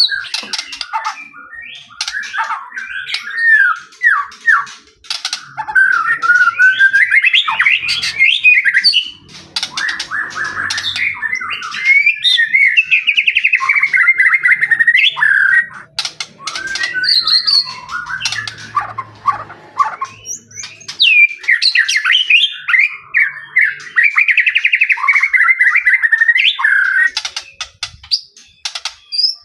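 White-rumped shama (murai batu) in full song: a loud, varied run of whistled phrases, fast trills and harsh notes, almost without pause apart from a couple of short breaks.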